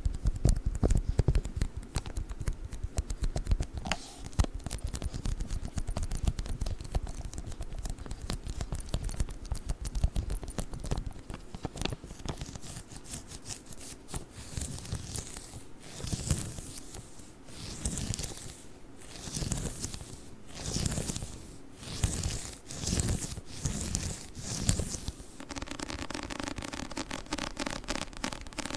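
Sticky lint roller worked close to the microphone, its tacky tape crackling and peeling: first a dense run of fine crackles, then slower swelling strokes about one a second. Near the end this gives way to a softer, steadier sound.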